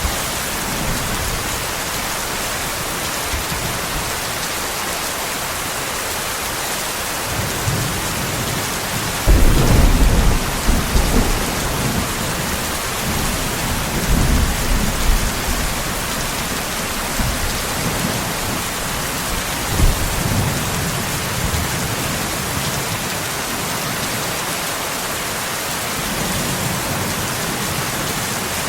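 Steady heavy rain with rolling thunder. The thunder swells in deep low rumbles, loudest about nine to twelve seconds in, with smaller rolls a few seconds later.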